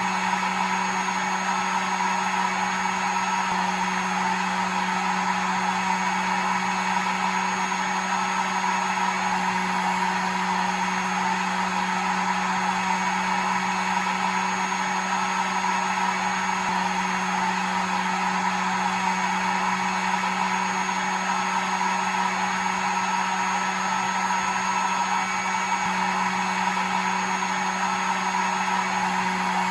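Hair dryer running steadily: a constant motor hum under a rush of blown air, looped as a white-noise sound for getting a baby to sleep.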